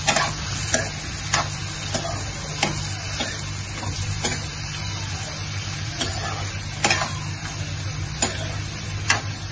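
Sliced onions, tomatoes, green chillies and cashews sizzling steadily in butter in a non-stick kadai while a steel ladle stirs them, clicking and scraping against the pan about once or twice a second.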